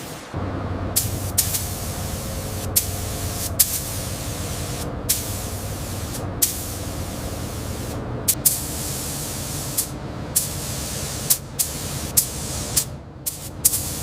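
High-pressure water spray from a pressure washer, a steady hiss with a low hum beneath it. It is broken by brief cut-offs about every second or so.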